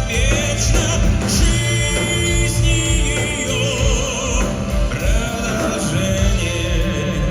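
A male singer's sustained, vibrato-laden vocal lines over live band accompaniment, in a musical-theatre or pop-ballad style.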